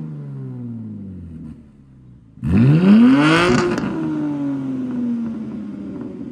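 BMW G80 M3 Competition's twin-turbo inline-six exhaust, with an equal-length mid pipe, coasting with the revs falling. About two and a half seconds in, a sudden hard burst of throttle sends the revs climbing steeply for about a second, then they drop away and settle.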